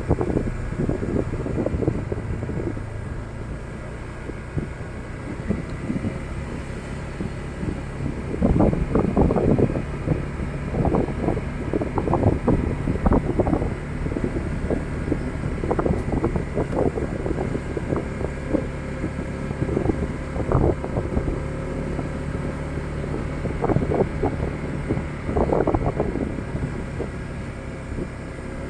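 Motorcycle engine running steadily while riding, with irregular gusts of wind buffeting the microphone.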